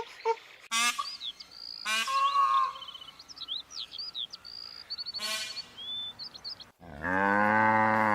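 A run of animal calls: two short pitched calls, then quick high bird-like chirps, then a long, loud low call near the end, most like a cow mooing.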